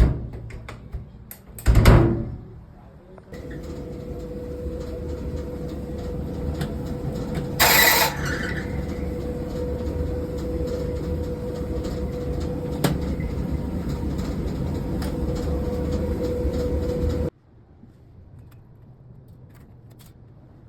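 Speed Queen tumble dryer running: after a loud thump, a steady hum with a low rumble starts about three seconds in, with a brief louder rasp a few seconds later. It cuts off suddenly near the end.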